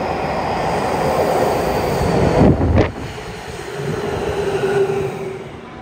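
Tokyu 5050 series train with Hitachi IGBT-VVVF control pulling into an underground station platform: running and wheel noise, with a loud burst of noise about two and a half seconds in. After that, a steady inverter whine from the traction motors as the train brakes, fading near the end.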